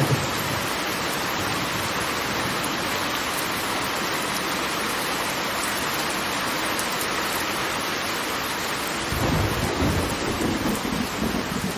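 Steady roar of water falling from a waterfall, an even rushing hiss, with a deeper rumbling swell coming in about nine seconds in.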